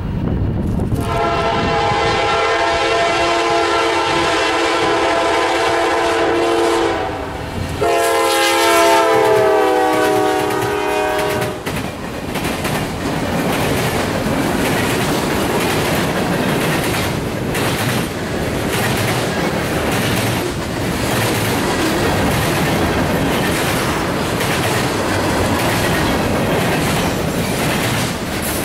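Freight train led by a GE Dash 9-40CW locomotive passing at speed: the locomotive's air horn blows two long blasts, the second falling in pitch as the locomotive goes by. Then the freight cars roll past with steady wheel clatter and clicking.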